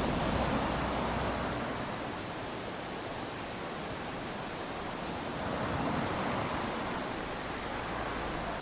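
Small sea waves lapping onto a sandy shore, washing in twice, a few seconds apart.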